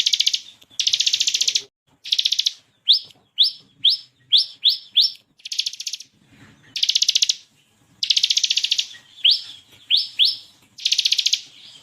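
Ciblek kristal (bar-winged prinia) singing: loud, fast rattling trills about a second long, alternating with two runs of short, sharp rising notes.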